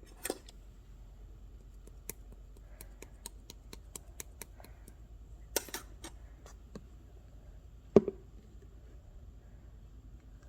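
Scattered small clicks and taps, a short rustle about five and a half seconds in, and a louder knock about eight seconds in, over a faint steady hum.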